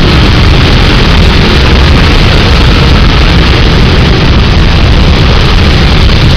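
Heavy rain pouring with strong wind buffeting the microphone: a loud, steady, overdriven rush with a deep rumble underneath.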